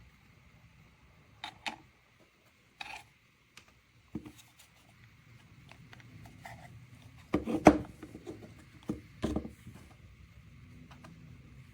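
Scattered clicks, taps and rubbing of small objects being handled, with the loudest cluster about seven and a half seconds in.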